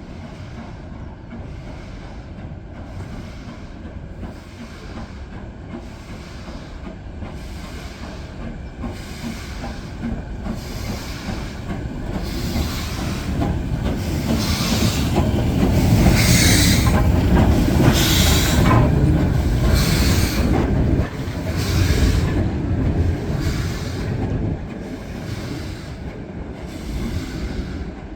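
Steam locomotive hauling a train past, its exhaust beating in a steady rhythm with the clatter of the wheels on the rails. It grows louder to a peak about two-thirds of the way through, then fades away.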